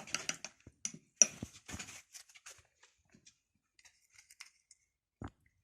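Faint scrubbing and small clicks of a paintbrush taking up brown paint from a paint set, dying away about two and a half seconds in, then one small knock near the end.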